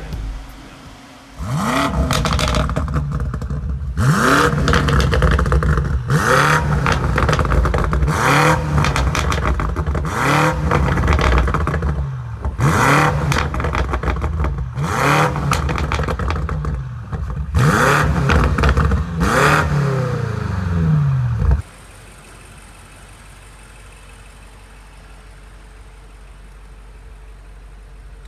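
BMW M8's twin-turbo V8 revved hard about ten times in a row, each rev rising and falling, with the exhaust crackling and popping between blips. The revving cuts off suddenly near the end, leaving a faint steady hum.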